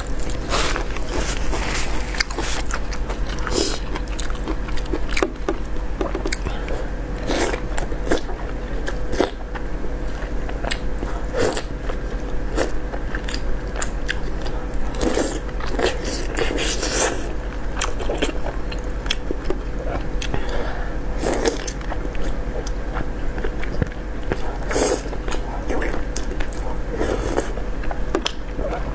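Close-miked chewing and biting of food, with many irregular sharp crunches and wet mouth clicks, over a faint steady electrical hum.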